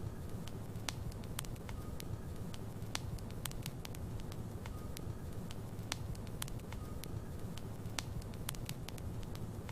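Logs burning in a fireplace: a steady low rumble of flame with frequent, irregular sharp crackles and pops.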